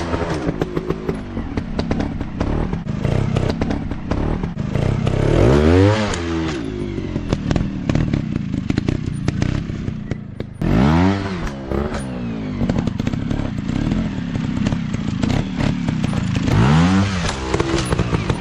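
Single-cylinder dirt bike engine revving in repeated surges, its pitch climbing and dropping about every five seconds, over a run of short knocks and clatter.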